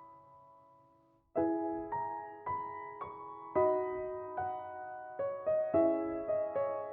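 Gentle solo piano background music. A note dies away almost to silence, then a slow run of single struck notes begins about a second and a half in.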